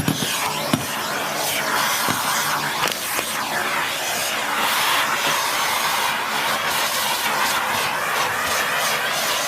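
Miele S6 Cat and Dog cylinder vacuum cleaner with its 2000 W motor running steadily, sucking through a dusting brush, with a couple of sharp knocks of the brush in the first second.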